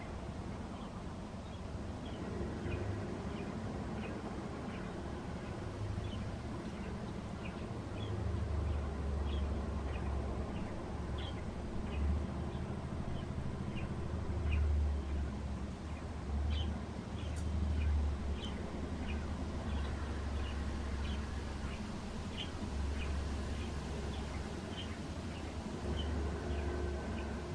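Small birds chirping in short, high calls, about two a second, through the whole stretch. From about eight seconds in, wind gusts against the microphone as a low, uneven rumble, which is the loudest sound.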